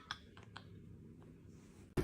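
A few faint, short clicks, mostly in the first half second, with quiet in between.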